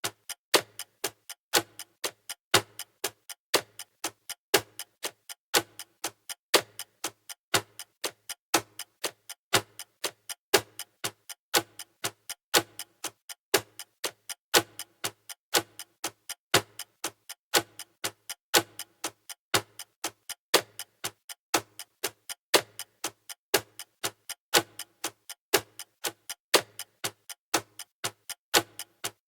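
Clock ticking sound effect for a countdown timer: sharp, evenly spaced ticks at a steady rhythm, a few each second.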